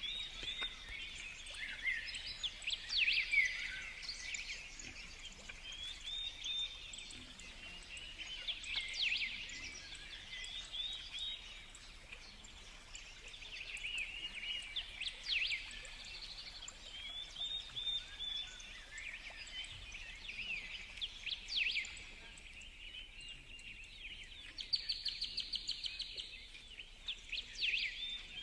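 Many small birds calling at once, an overlapping chorus of short, high chirps and sweeping notes, with a quick run of rapidly repeated notes near the end.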